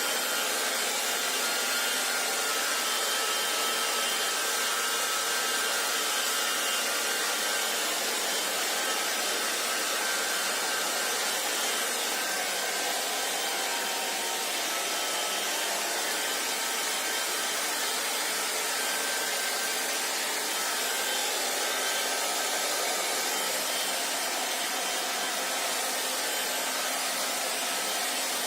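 Hair dryer blowing steadily: a continuous, even rush of air and motor hum with a few faint steady tones in it.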